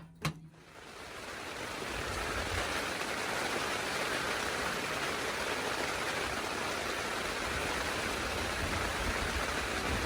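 Two sharp clicks, then steady rain fading in about a second in and holding as a constant hiss.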